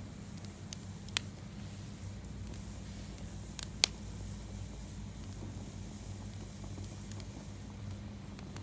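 Wood campfire burning, with scattered sharp crackles and pops over a steady low background; the two loudest pops come about a second in and just under four seconds in.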